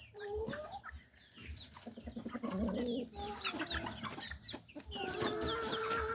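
Mixed flock of chickens clucking, with many short high peeps from young birds. A longer drawn-out call comes about five seconds in.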